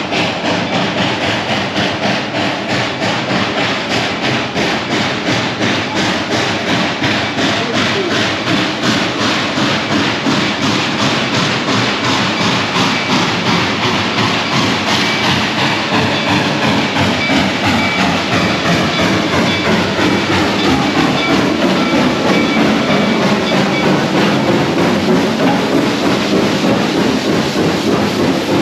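Train running with a steady rhythmic beat, about four a second, with faint high tones slowly falling in pitch in the middle.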